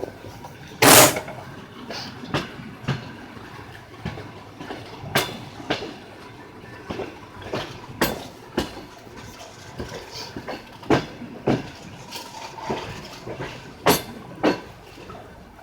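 Train wheels clicking over rail joints, heard from aboard a moving train: pairs of knocks about half a second apart, repeating roughly every three seconds, over the steady rumble of the running train. There is a louder knock about a second in.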